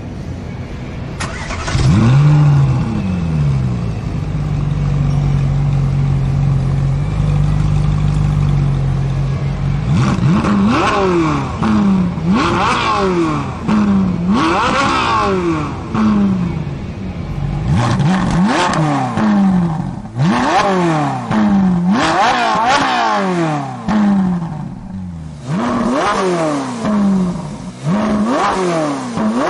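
A sports car engine starts about a second in and settles into a steady idle. From about ten seconds in it is revved over and over in short blips, its pitch climbing and dropping each time.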